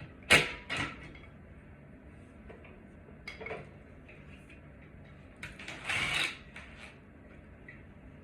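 A few knocks and clatters of hard objects being handled: two sharp knocks near the start, a lighter clatter midway, and a longer scraping clatter about six seconds in.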